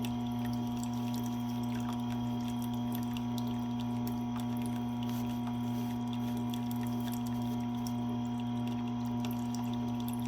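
Tormek T8 water-cooled sharpener's motor running steadily with a constant low electric hum.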